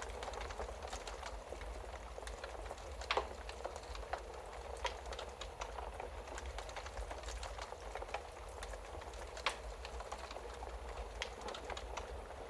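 Wood fire crackling in a fireplace: a steady hiss with frequent small snaps, and two louder pops, one about three seconds in and one near the end.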